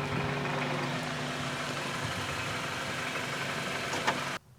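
Car engine running steadily with a constant hum, a short click about four seconds in, then cut off abruptly near the end.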